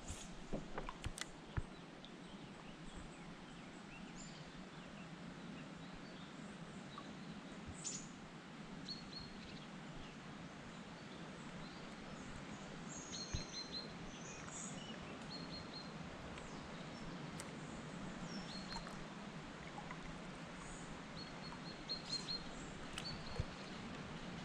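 Quiet riverside ambience: small birds chirping now and then in short, high notes over a faint steady hiss, with a few small knocks in the first couple of seconds.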